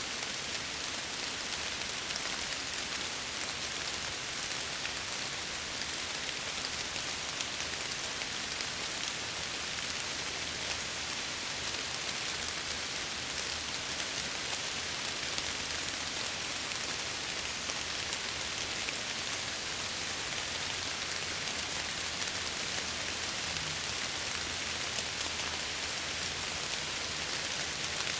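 Steady rain pattering against window glass, an even hiss with fine scattered drop ticks.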